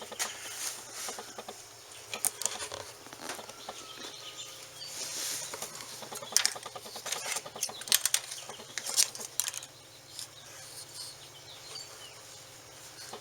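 Handling and work noise: scattered sharp clicks and knocks with some rustling, thickest a little past the middle.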